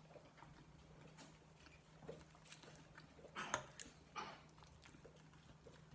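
Faint close-up chewing of a mouthful of chilli cheese fries: soft wet mouth clicks, with a short cluster of louder ones about three and a half seconds in. A faint steady low hum sits underneath.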